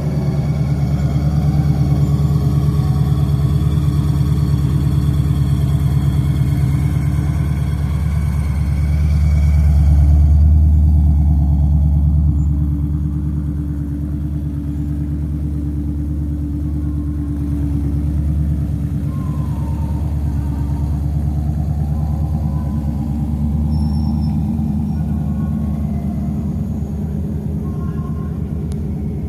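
A vehicle engine running with a deep, steady rumble. It swells to its loudest about ten seconds in, then eases back.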